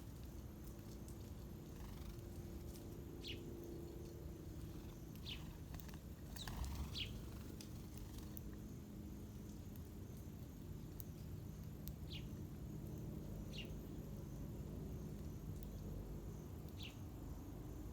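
Wild birds giving short single chirps every couple of seconds, over a steady low background rumble.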